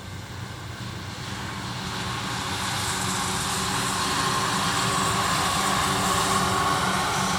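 Electric express train on the Tobu Nikko Line approaching at speed, its traction motors whining in steady tones over the running noise, growing louder for the first few seconds and then holding near its loudest.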